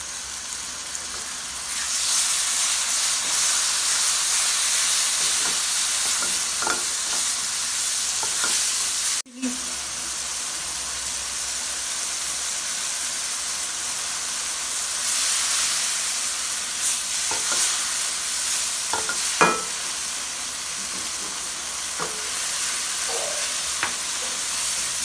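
Tomato paste and spices frying in hot oil in a nonstick wok: a steady sizzle that grows louder about two seconds in, with the stirring of a silicone spatula and a few light knocks against the pan.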